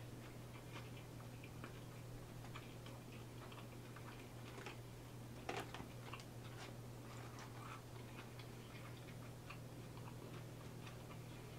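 Faint close-miked chewing of a chicken nugget with coleslaw: many small wet mouth clicks and smacks, with a slightly louder click about five and a half seconds in, over a steady low hum.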